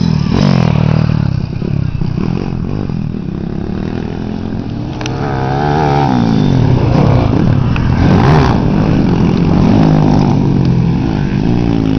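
Motocross bike engines revving, their pitch rising and falling repeatedly, with several bikes overlapping in the second half.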